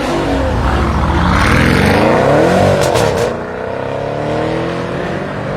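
BMW performance car engine revving hard, its pitch climbing for about two and a half seconds, then dropping and easing off about three seconds in.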